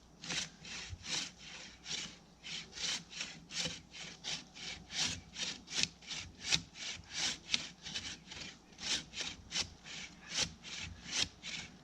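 Bow saw cutting through a tree trunk by hand: a steady back-and-forth rasp of the blade in the wood, about two to three strokes a second.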